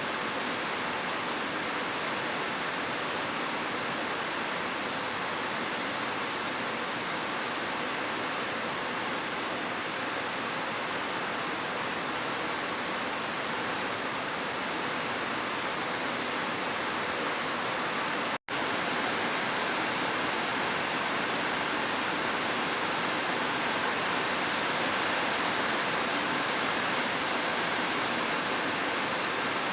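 Heavy rain falling as a steady, even hiss. It cuts out for a split second about eighteen seconds in, then resumes slightly louder.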